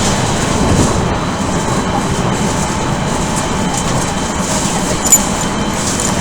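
Odakyu 1000 series electric train, with Mitsubishi GTO-VVVF traction equipment, running along the line, heard from inside the car: a steady rumble of wheels on rail with faint steady tones from the drive. About five seconds in there is one short, sharp high-pitched tick.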